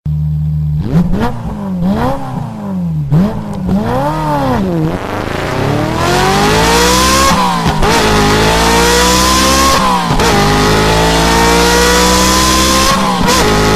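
Engine revving up and down about four times, then accelerating through the gears: the pitch climbs steadily and drops back at each of about three shifts.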